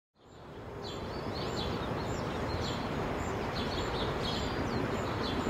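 Outdoor background noise fading in from silence, with small birds chirping, short high chirps about twice a second.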